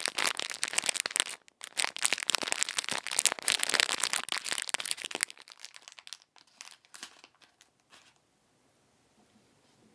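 Close-miked ASMR ear-cleaning sounds: fast, crisp crackling and scratching on the microphone for about five seconds, thinning to scattered clicks that stop about eight seconds in.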